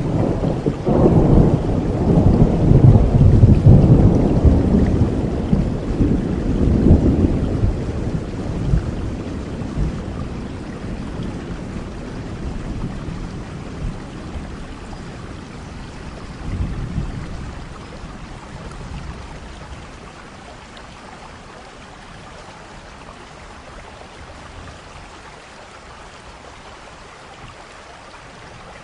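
Thunderstorm: a long rolling rumble of thunder over steady rain, loudest in the first few seconds and dying away, with a smaller rumble about halfway through; then only the hiss of rain, growing quieter.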